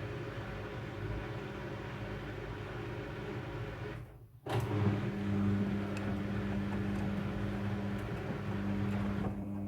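Front-loading washing machine running with a steady motor hum. About four seconds in the sound breaks off briefly, then comes back louder.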